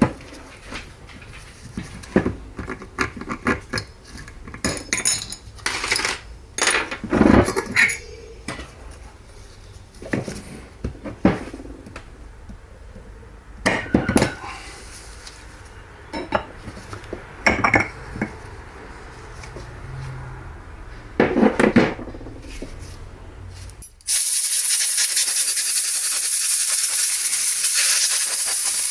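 Metal transmission parts clinking and knocking irregularly as they are handled. Near the end a loud, steady hiss of spray starts and runs for about five seconds.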